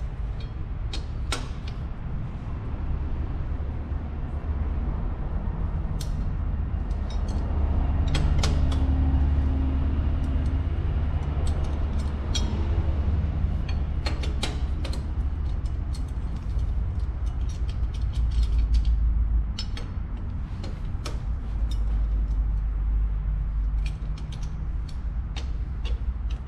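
Hand tools on metal: wrench and ratchet clicks and clinks as bolts are loosened from the magneto cover of a Yamaha FZ engine, the clicks coming in scattered clusters over a steady low rumble.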